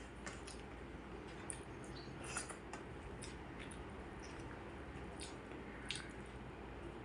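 Close-up eating sounds: soft wet chewing and squelching of a rice meal, with scattered small clicks.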